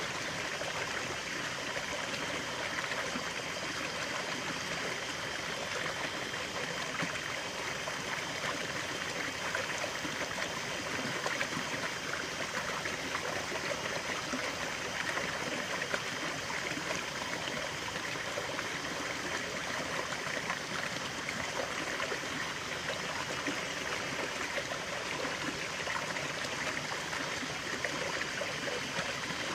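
Natural stream of running water flowing and trickling steadily.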